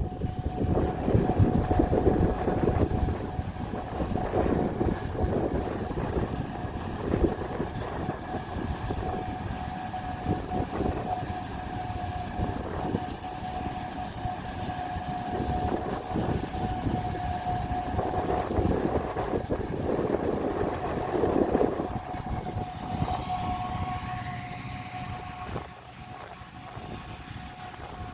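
Harvest machinery running steadily with a constant high whine over an uneven rumble, with wind gusting on the microphone.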